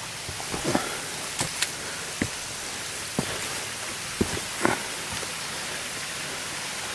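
Steady rushing of water from a small mountain waterfall, with irregular footsteps knocking on rocks.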